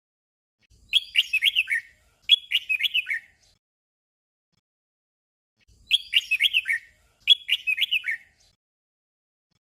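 Red-whiskered bulbul song: a short whistled, warbling phrase sung twice in quick succession (the 'double' song), then after a pause of about two seconds the same pair of phrases again.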